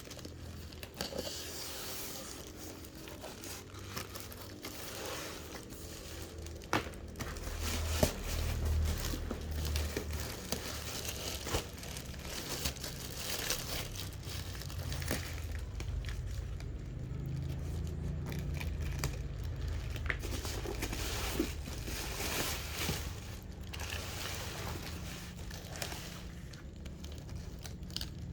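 Plastic packaging crinkling and rustling in irregular handling, with scattered sharp clicks and some tearing, as a styrofoam airplane kite is unwrapped.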